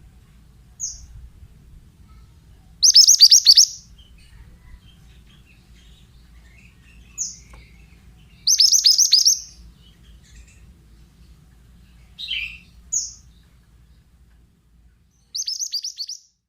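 A pied bushchat singing: three short, rapid, high trilling phrases of about a second each, several seconds apart, with single sharp high notes in between.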